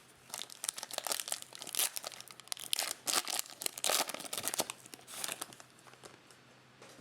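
Plastic trading-card pack wrapper being torn open and crinkled by hand: a run of quick crackles that dies away near the end.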